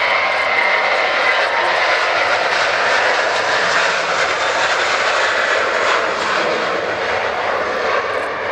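Jet airliner's engines passing close by: a loud, steady rushing roar with a high whine in the first second or two, slowly easing off near the end.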